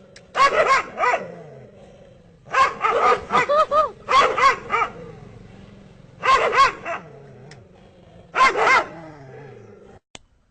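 Dog barking in four quick bursts of short, pitched barks, with pauses between them.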